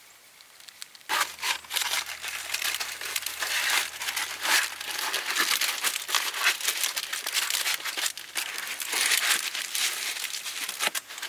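Continuous crinkling and rustling of crumpled material being handled close up, starting about a second in, over a faint low hum.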